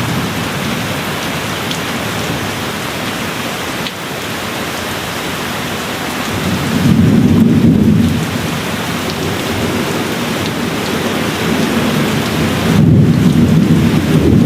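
Steady rain falling, with gentle low rolls of thunder swelling up twice: once about halfway through and again near the end.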